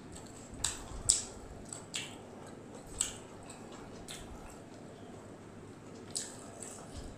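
Close-miked wet mouth sounds of someone eating fried rice and chili chicken by hand: chewing with several sharp lip smacks, the loudest about a second in.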